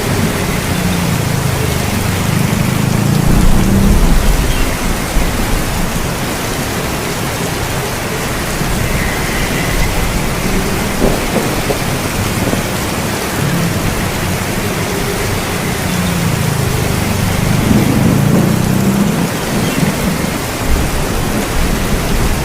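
Heavy, steady rain with rolling thunder: a low rumble swells a few seconds in and again near the end.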